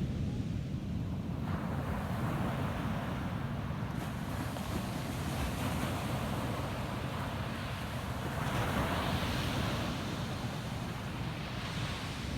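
Ocean surf breaking and washing up a sandy beach, with a swell of rushing wash about a second and a half in and a louder one around eight and a half seconds in, over a steady low rumble.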